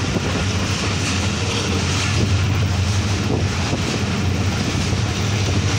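Steady running noise of a passenger train coach at speed, heard through an open door: a constant low rumble of wheels on rails with rushing air.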